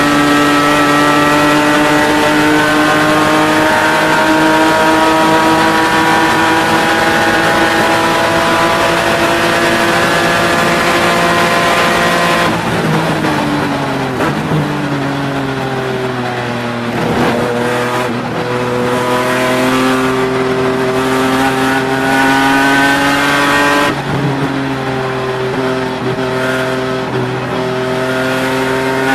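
BMW E36 race car's engine heard from inside the cabin. It runs at full throttle with its pitch climbing slowly. About twelve seconds in it lifts off and the pitch falls in steps as the car brakes and downshifts, then it accelerates again, with one upshift briefly dropping the pitch about five seconds before the end.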